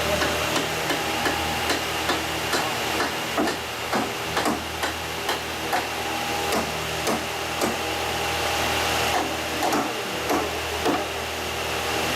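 Irregular knocks, one or two a second, of wooden float parts being struck and fitted together during the assembly of a danjiri, over the steady hum of an engine running.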